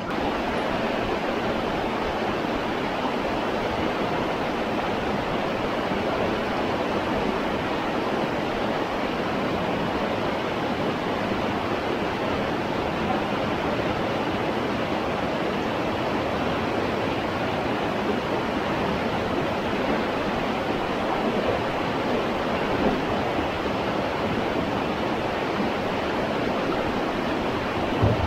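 River water rushing steadily: the even, unbroken noise of fast-flowing current.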